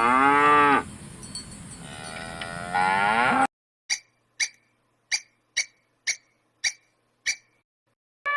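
Cow mooing twice, the first call falling in pitch and the second rising, followed by seven short, sharp clanks about half a second apart.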